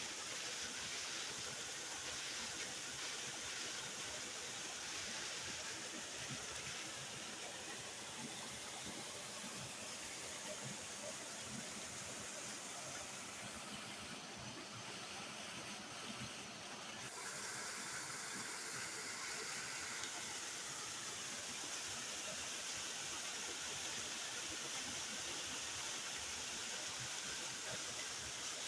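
Waterfall water rushing in a steady, unbroken roar, softening slightly in its upper hiss for a few seconds around the middle.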